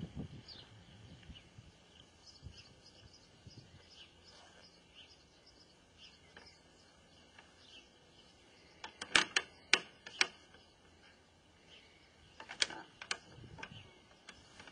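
Faint bird chirps over quiet outdoor background noise, with a quick run of sharp clicks about nine seconds in and a few more about twelve and a half seconds in, the loudest sounds.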